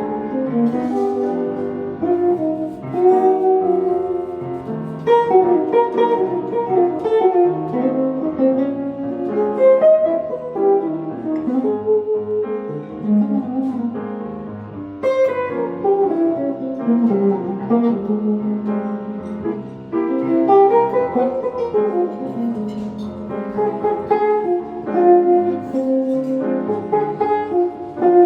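Jazz guitar and piano playing an instrumental passage of a slow jazz standard, with a melodic line over chords.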